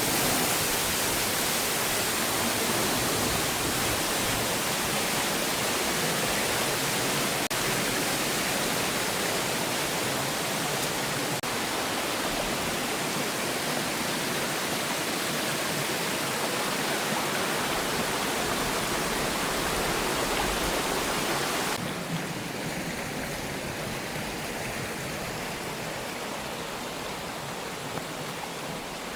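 Waterfall: a steady rush of falling water, which turns suddenly quieter and duller about three-quarters of the way through.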